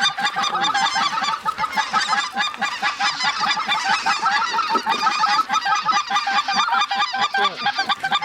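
A large flock of geese calling and honking, many short calls overlapping without a break.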